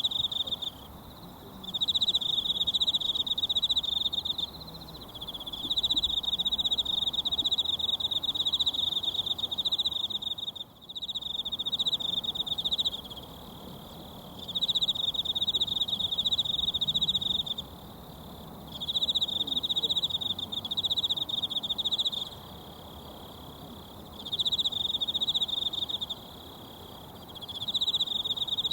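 An insect trills loudly and high in bursts lasting from two to several seconds, with pauses of a second or two between them. A faint stream murmurs underneath.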